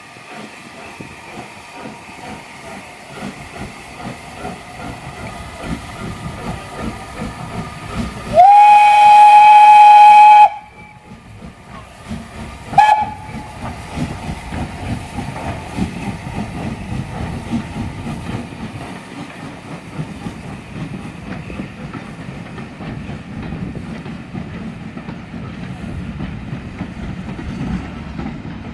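Steam locomotive whistle blown once, loud and steady for about two seconds, then a short second toot, over the rumble and wheel clatter of a steam train running.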